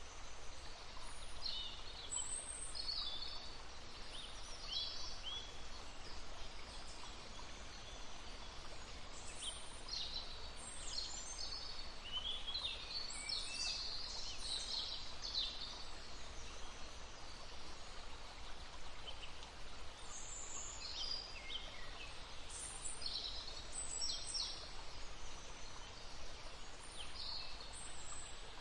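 Wild birds singing, with many short chirps and trills coming thick and fast, over the steady babble of a flowing brook.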